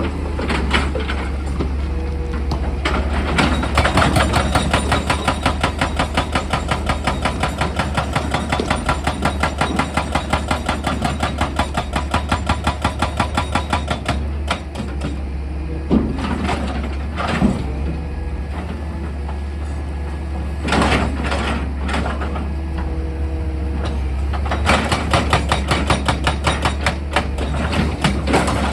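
Excavator-mounted hydraulic breaker hammering rock in two long runs of rapid, even blows, several a second, over the steady drone of the excavator's diesel engine. Between the runs come a few single heavy knocks.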